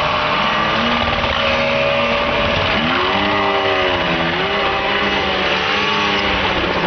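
Remote-control helicopter engine running, its pitch rising and falling repeatedly as the throttle changes.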